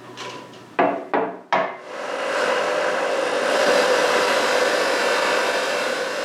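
Three short knocks, then a small electric motor starts about two seconds in and runs steadily with a whirring hum.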